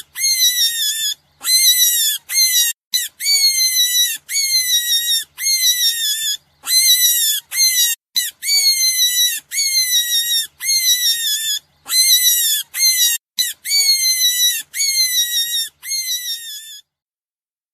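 An animal squealing: a quick run of high-pitched squeals, about one a second, each falling slightly in pitch. The squeals stop abruptly about a second before the end.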